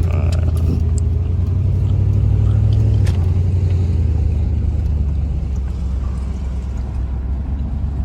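Car driving slowly, heard from inside the cabin: a steady low engine and road rumble that shifts down a little about three seconds in.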